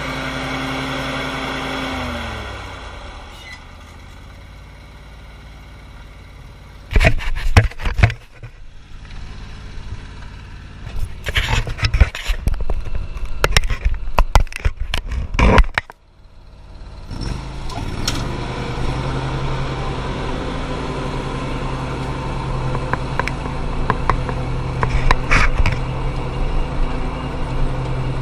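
An engine running steadily, dropping in pitch about two seconds in, with loud knocks and a noisy clattering stretch in the middle before an engine hum settles in again.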